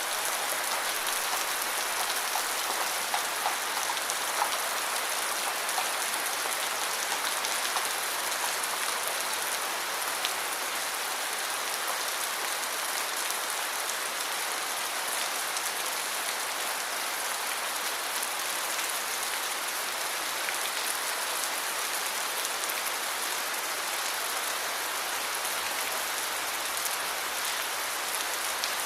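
Steady heavy rain falling, an even hiss with a few separate drips standing out in the first few seconds.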